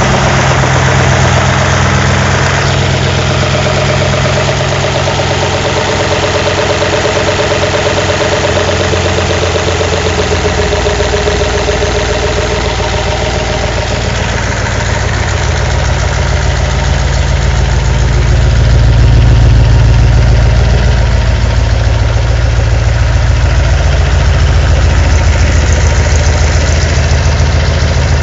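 V8 engine of a GAZ-24-10 Volga idling, a steady exhaust note heavy in the low end, which swells a little louder about two-thirds of the way through.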